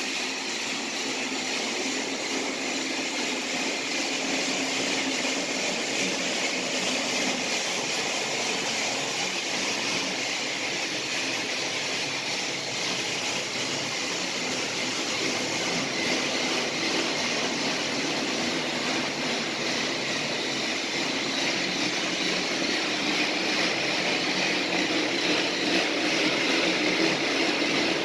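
Tomy Plarail battery-powered toy train running along its plastic track: a steady whir of the small motor and gears with wheel rattle, growing slightly louder toward the end.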